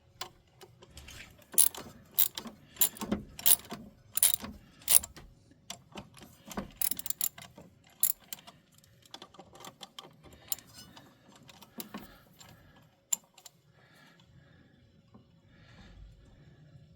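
Metal hand tools clinking and knocking, with a socket ratchet clicking. A string of sharp metallic knocks comes in the first few seconds, and the clicking thins out after about eight seconds.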